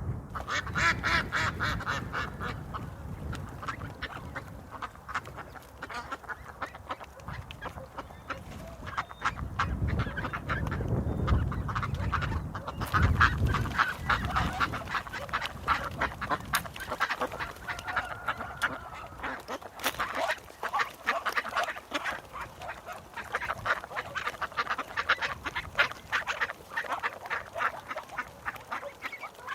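Ducks quacking, many short calls in quick succession, with a low rumble underneath around the middle.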